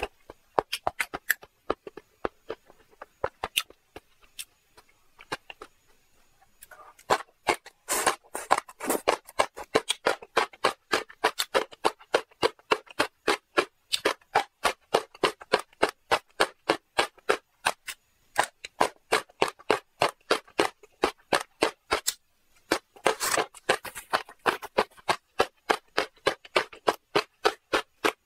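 Close-miked chewing of marinated shrimp and green vegetable stalks: rapid wet smacking and crunching clicks. They are sparse at first and then come about five a second, with brief pauses.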